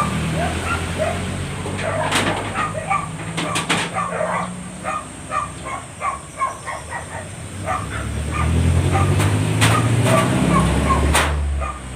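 Dogs yipping and whimpering in many short, repeated calls. A few sharp knocks fall among them, and a low rumble swells about eight seconds in and stops near the end.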